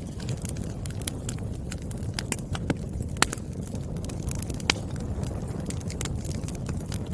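Burning firewood crackling, with sharp irregular pops over a steady low rumble of flames; a louder pop about three seconds in and another a little later.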